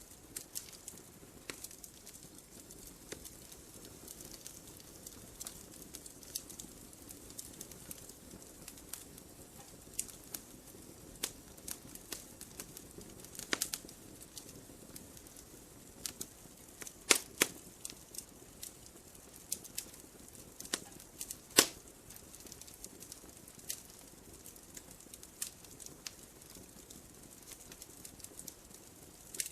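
Wood fire in a fireplace crackling: irregular sharp pops and snaps over a faint steady hiss, with a few louder pops about two-thirds of the way through.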